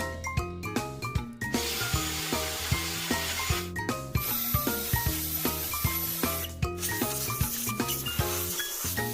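Background music with a beat, over a steady hiss that starts about a second and a half in and runs almost to the end, carrying a thin high whine: a wet/dry vacuum cleaner running.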